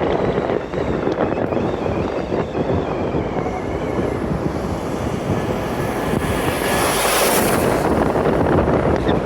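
Steady, loud rumble of road and wind noise from a moving vehicle, with a brief rise in hiss about seven seconds in.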